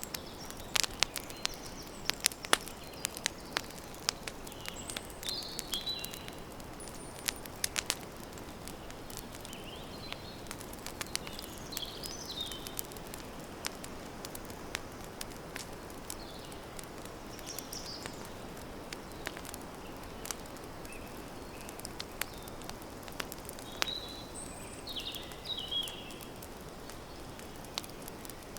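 Campfire crackling, with sharp pops and snaps over a steady hiss, thickest in the first few seconds and sparser later. Birds give short high chirps now and then.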